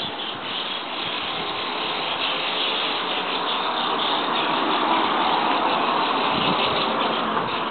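Dense, continuous chattering of a large flock of birds massed on an overhead wire, with a rushing vehicle sound that swells louder toward the middle and fades near the end.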